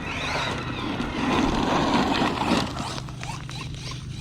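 Arrma Mojave RC truck running on 6S, its electric motor and tyres tearing through grass and rocks. The rush builds, is loudest a little past the middle, then drops away suddenly about two and a half seconds in.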